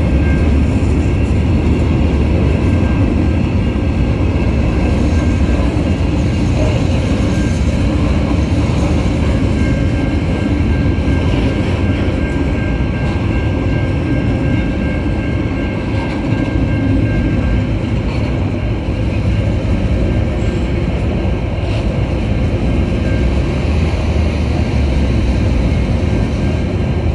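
Freight train wagons rolling steadily past: a continuous loud rumble of steel wheels on rail from empty coal hoppers, log wagons and container flats. A faint high tone comes and goes over it.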